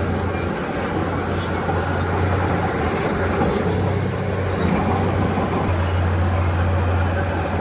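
Bulldozer's diesel engine running steadily under work, with short high squeaks from the machine now and then.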